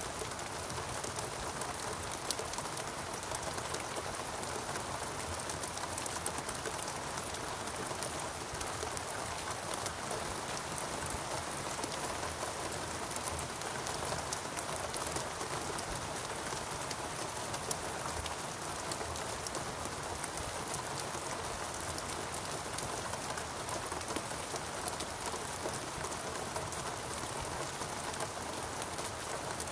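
Steady rainfall, with many small drops pattering and ticking against surfaces, at an even level.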